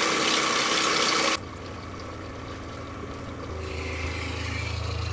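A loud steady hiss cuts off abruptly about a second and a half in. About two seconds later the boat's shower sump pump starts and runs with a steady low electric hum: it is working again after its corroded switch was replaced.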